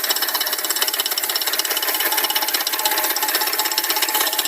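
Car engine idling at working temperature with a fast, steady metallic ticking ("taca taca") from the top of the left-hand valve cover. This ticking comes back at idle and goes away when the engine is accelerated.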